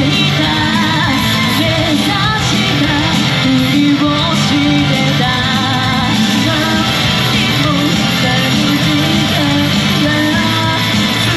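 Idol group performing a rock song live: several female voices singing over loud, steady rock music with electric guitar.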